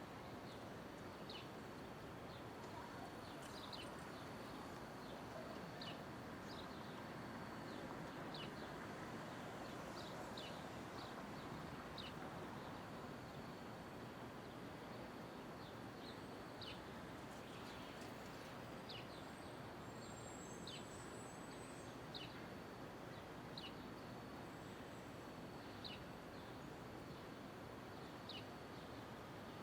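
Steady downtown street ambience, an even wash of distant traffic and city noise, with a small bird chirping short, falling notes every second or two.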